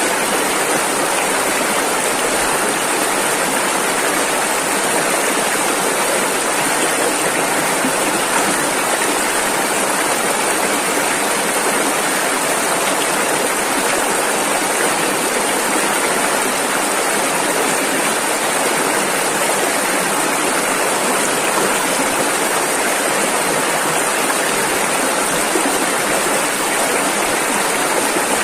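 Rushing river water, a steady even rush with no breaks or changes.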